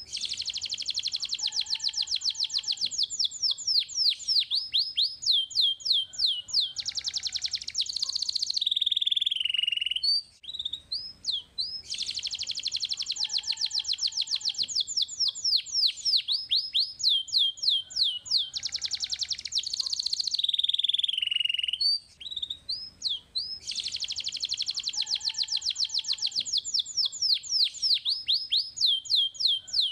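Young canary singing: long runs of very fast trilled notes, each broken by sweeping, falling notes, in a phrase of about ten seconds that repeats three times.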